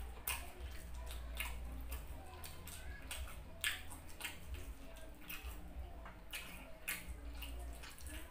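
Close-miked chewing of fried pork: wet mouth smacks and clicks at irregular intervals, over a steady low hum.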